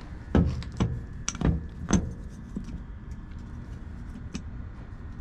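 Metal tools clinking and knocking against the parts of a semi-hermetic refrigeration compressor. There are several sharp strikes in the first two seconds, then lighter scattered ticks.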